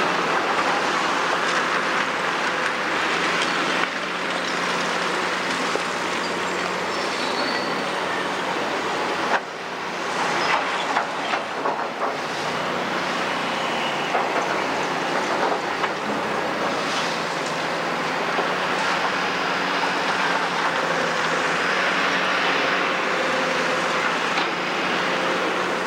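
Heavy hydraulic excavator running steadily, with faint metallic squeals from its tracks and linkage. About ten seconds in comes a cluster of knocks and crashes, as rubble is dumped onto a heap.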